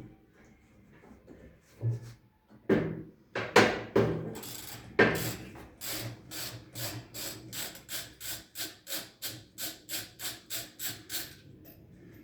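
Hand-tool work on the washing machine's drum assembly during a spider-arm replacement: a few loud knocks, then a steady run of quick strokes, about three a second, that stops near the end.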